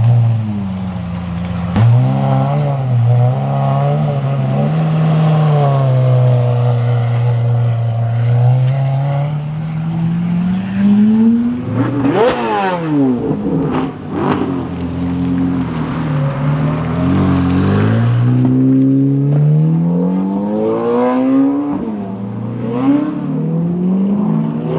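Sports car engines pulling away and revving, one car after another, the pitch climbing and dropping repeatedly; near the start a Lamborghini Aventador SVJ's V12 rolls out slowly, and about twelve seconds in a car speeds past close by.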